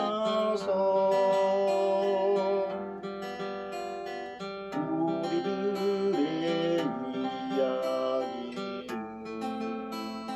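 A voice singing slow, drawn-out lines to a strummed acoustic guitar.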